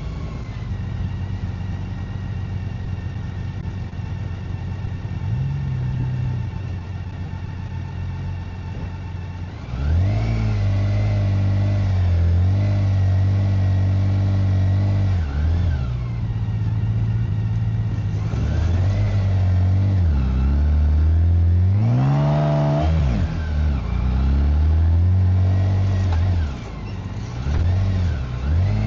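BMW K1600GT's inline-six engine and exhaust under way. It runs at a steady, moderate note for about ten seconds, then turns louder and rises through the gears, with short breaks at each shift and a couple of dips where the throttle is closed.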